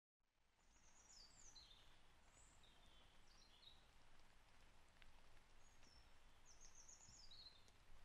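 Faint woodland ambience fading in: a low, even background hiss with a bird singing several short chirping phrases that run downward in pitch, the longest near the end.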